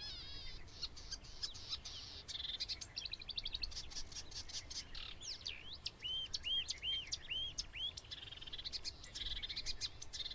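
Marsh warbler singing: a fast, varied stream of chirps, trills and clicking notes, with a run of about half a dozen repeated arched notes midway.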